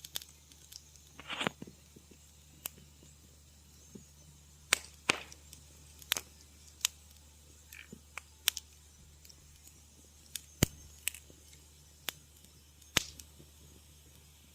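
Wood fire crackling in a fireplace: irregular sharp pops and snaps, one or two a second, with a short run of crackles about a second in, over a faint steady low hum.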